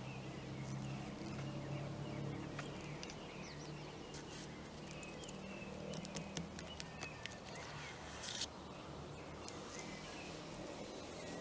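Quiet outdoor ambience: a steady low hum of distant traffic with faint, scattered bird chirps. A few light clicks come about six to seven seconds in, and a short hiss shortly after.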